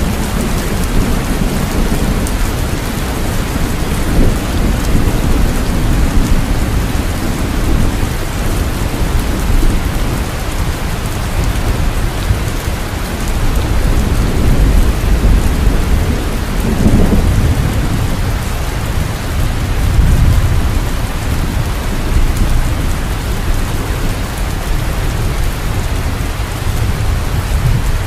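Steady heavy rain with low rolling thunder that swells now and then.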